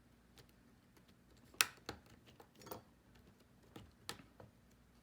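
A few sharp clicks and taps from hands handling small parts and tools: about four separate clicks, the loudest about one and a half seconds in.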